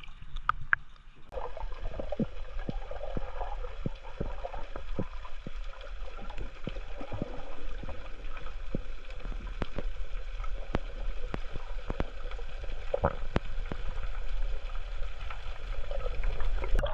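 Water splashing and gurgling, with a steady low rumble of wind buffeting the microphone and irregular sharp knocks; it starts abruptly about a second in.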